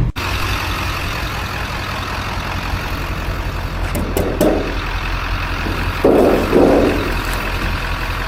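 Truck running with a steady engine hum and road-like noise, with two short louder bursts about four and six seconds in.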